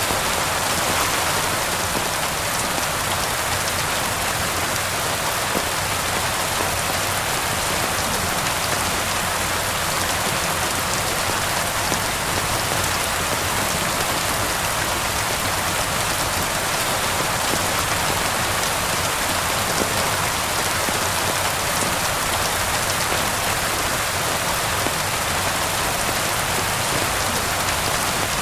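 Steady rain falling, an even, dense hiss that holds level throughout, with scattered faint drop ticks.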